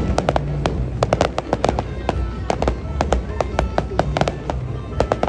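Aerial fireworks going off in quick irregular succession, sharp cracks and bangs several a second over a low rumble.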